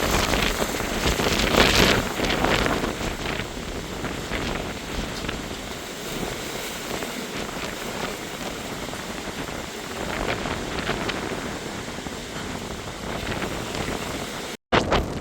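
Hurricane-force wind gusting and buffeting the microphone, a dense rushing noise that swells and eases, strongest in the first two seconds. It breaks off for an instant near the end.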